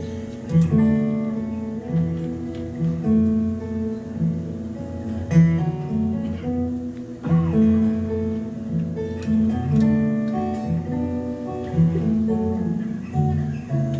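Acoustic guitar playing an instrumental passage of the song, with no singing: a melody over a steadily repeating bass line.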